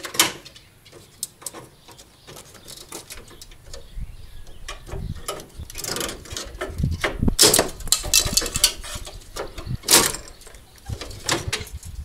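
Plastic front grille of a VW Golf Mk2 being cut and pried loose from the body: a run of clicks, snaps and plastic rattles, busier in the second half, with sharp snaps just after the start and about ten seconds in.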